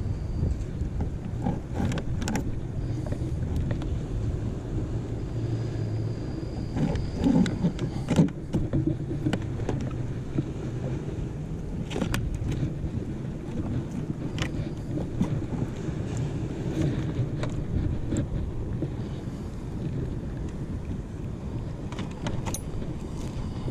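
Steady low wind rumble on the microphone with water moving around a kayak, broken by scattered light knocks and clicks; a louder clatter comes about seven to eight seconds in.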